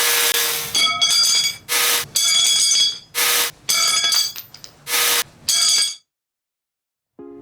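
Power tool cutting iron: a steady whine and harsh hiss in short stretches, alternating with ringing metallic tones, until about six seconds in. Music starts near the end.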